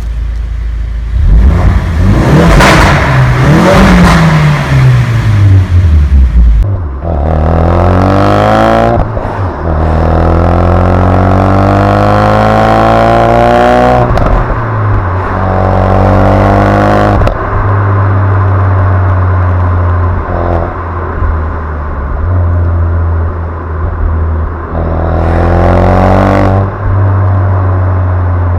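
2016 Ford Focus RS's 2.3-litre turbocharged four-cylinder engine heard through its exhaust, revving up several times in rising sweeps over a steady low rumble between them. The first revs in the opening seconds rise and fall quickly with a rough, noisy edge; later ones climb more slowly.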